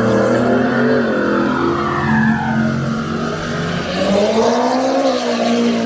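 Drag-racing car engine running loudly, its pitch rising and falling as it revs, climbing again about four seconds in.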